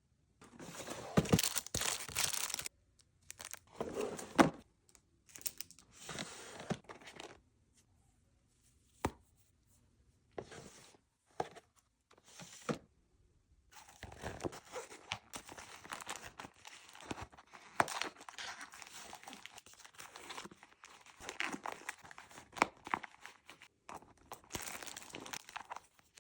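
Crinkling and rustling of packaging being handled, in irregular bursts with short silences between, with occasional sharp clicks and tearing sounds.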